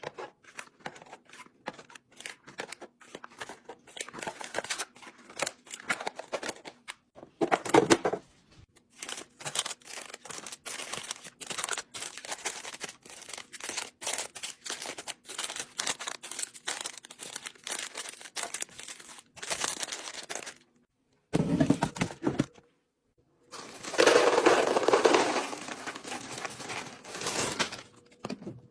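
Food packaging and containers being handled during fridge restocking: plastic crinkling and tearing, with many light clicks and knocks as items are set down and lids snap. There are a few abrupt breaks, and a longer stretch of crinkling comes near the end.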